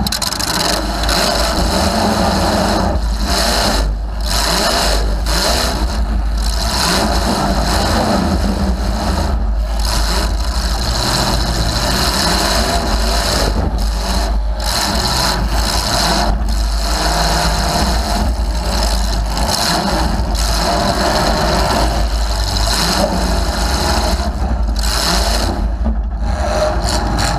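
A demolition derby car's engine running loud through short open exhaust pipes that stick up through the hood, its note rising and falling with frequent brief dips as the throttle is worked.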